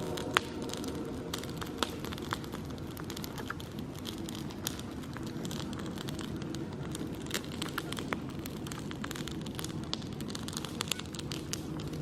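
Wood campfire crackling, with irregular sharp pops, the loudest less than half a second in, over a low steady background rumble.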